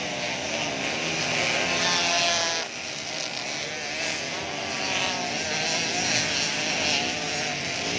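Several Yamaha YZ85 two-stroke motocross bikes racing, their engines revving up and down with overlapping rising and falling whines.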